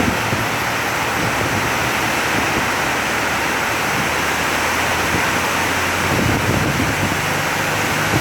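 Very heavy rain pouring down in a steady, loud hiss, with a faint low hum underneath.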